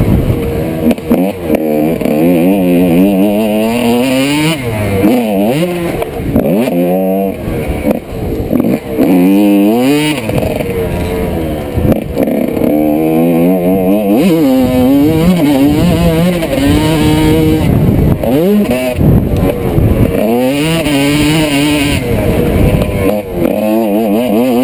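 1995 Honda CR125's 125 cc single-cylinder two-stroke engine being ridden hard on a motocross track, revving up and dropping back over and over as the rider works the throttle and gears.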